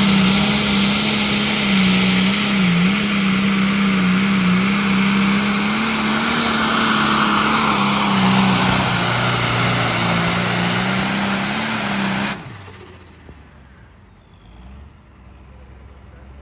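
Pulling tractor's engine running hard at high revs with a steady, slightly wavering pitch, then cutting off abruptly about twelve seconds in as the engine is shut down.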